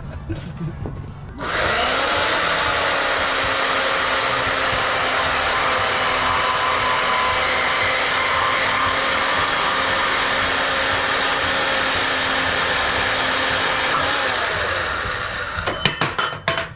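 Bandsaw starting up about a second and a half in and running steadily as it cuts through a motorcycle frame tube, then winding down near the end, followed by a few clanks.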